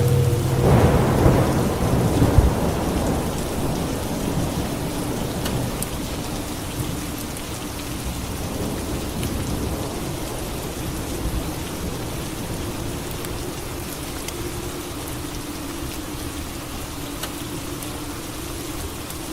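Steady rain with a clap of thunder about a second in, its rumble rolling on and fading over several seconds.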